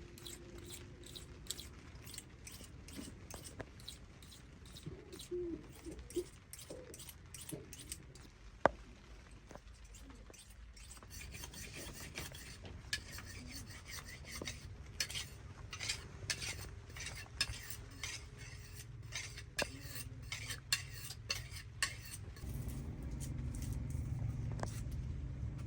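Metal utensil scraping and clinking against cookware in quick, irregular series of short strokes, as in stirring or scraping food in a pot.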